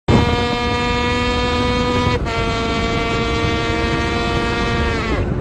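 A two-stroke motorcycle engine held at high revs, a loud, steady high-pitched drone that starts abruptly. Its pitch steps down slightly about two seconds in, then sags as it comes off the revs near the end.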